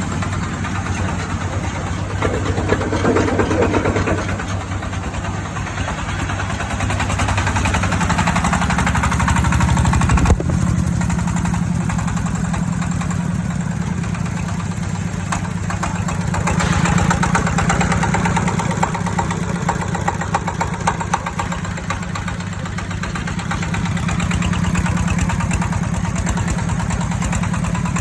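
Diesel engine driving a small jaw crusher, running steadily throughout, with several louder, noisier stretches and a sharp knock about ten seconds in.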